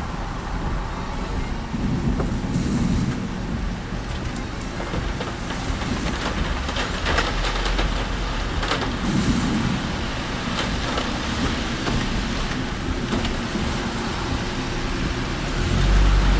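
A car driving on wet roads in typhoon rain and wind: steady road and tyre noise with a low rumble, getting louder at the very end.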